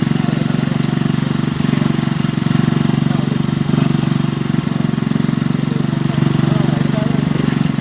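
An engine on a fishing boat running steadily: a constant low drone with a faint high whine above it.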